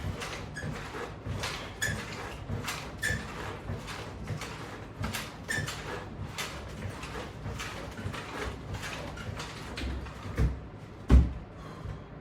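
Rhythmic footfalls, about two a second, from jogging in place against resistance bands, with a heavier thump about eleven seconds in.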